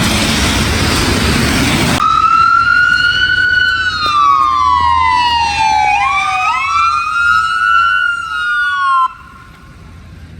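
A steady rushing noise for about two seconds, then emergency vehicle sirens wailing: one slow wail sweeps down and back up, and a second siren joins about six seconds in. Both cut off suddenly near the end.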